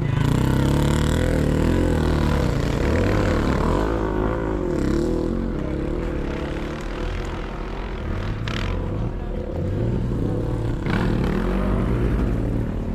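Sidecar motocross motorcycles' engines running and revving on the track, their pitch rising and falling again and again.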